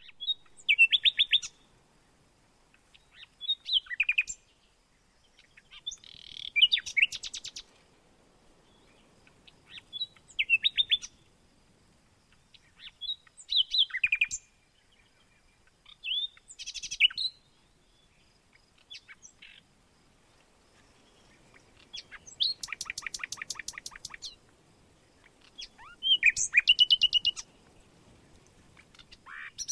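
A bird singing short phrases of rapid chattering notes, repeated about every three seconds, nine times in all; the longest phrase comes about two-thirds of the way through.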